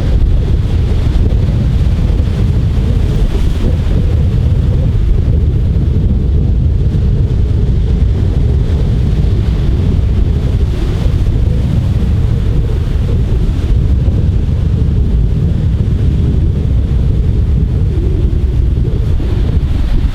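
Wind buffeting the microphone: a loud, steady low rumble without a break.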